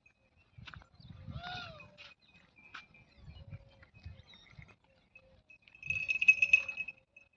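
A Jakhrana goat bleats once about a second and a half in, a short call that rises and then falls in pitch. Near the end a louder, high, shrill pulsing trill lasts about a second.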